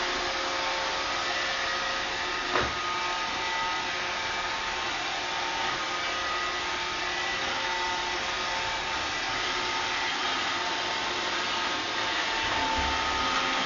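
Roomba robot vacuum running: a steady hiss of suction with a whine from its motors, and a single knock about two and a half seconds in.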